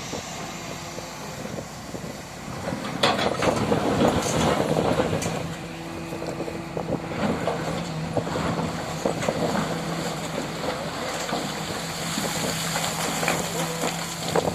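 Excavator diesel engine running steadily while digging a well, with a louder, noisy stretch about three to five seconds in.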